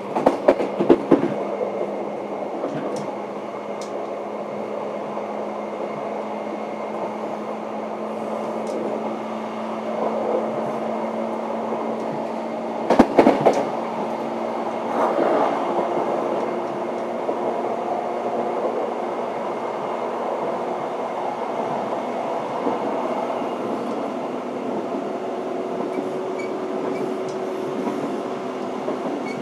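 Running sound of a 583-series sleeper electric train, heard from the vestibule of its motor car MoHaNe 583: a steady rumble and hum, with wheels clattering over rail joints near the start and loudest about 13 seconds in.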